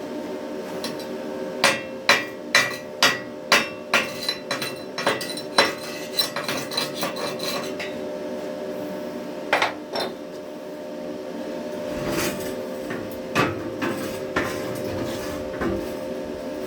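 Chipping hammer knocking slag off a fresh stick weld on steel: a quick run of sharp metallic taps, about two a second, with the steel ringing. It is followed by scattered lighter taps and knocks.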